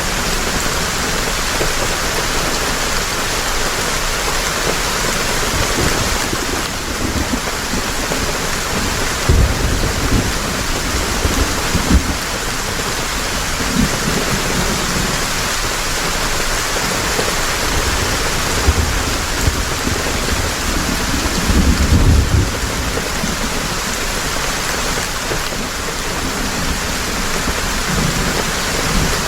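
Heavy rain falling steadily, with a few low rolls of thunder in the middle stretch.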